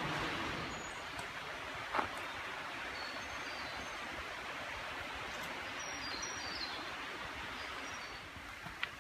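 Outdoor forest ambience: a steady hiss with a few faint, short, high bird chirps, and a single click about two seconds in.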